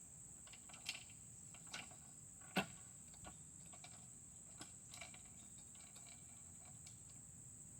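Crickets chirping in a steady high-pitched drone, with a few scattered faint clicks and knocks of metal mower parts being handled; the sharpest knock comes about two and a half seconds in.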